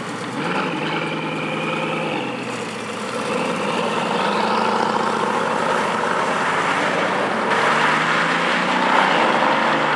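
Bugatti Veyron W16 quad-turbo engines pulling away, the pitch rising as they rev and then holding steady, growing louder near the end.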